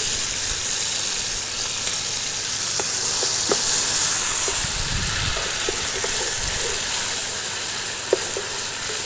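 Chopped tomatoes and garlic frying in hot oil in a large aluminium pot, giving a steady sizzle, while a wooden spoon stirs them. A few short clicks come through as the spoon works the pan.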